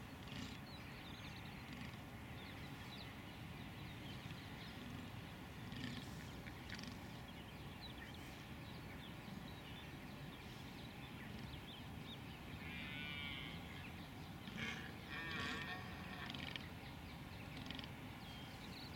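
Open-air background with a steady low rumble and a few short bird calls, the clearest a little over two-thirds of the way through.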